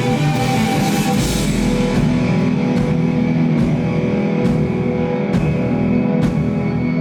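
A rock band playing live, electric guitar and drum kit, with sustained guitar chords over a steady beat of drum hits about once a second.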